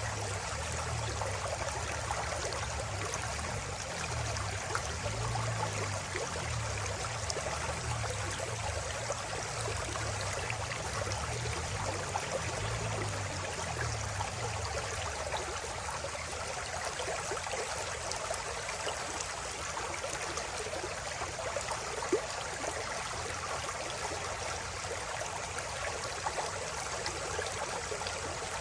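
River water flowing in a steady, even rush, with a low rumble underneath during the first half that fades out about halfway through.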